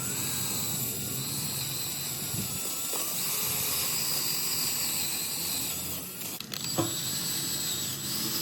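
Wire brush scrubbing across hard dogwood, cleaning out wormholes: a steady scratchy hiss, with a brief break about six and a half seconds in.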